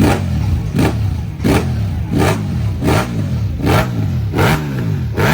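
Motorcycle engine revved in quick repeated throttle blips, a sharp bark roughly every three-quarters of a second with the revs falling away between each.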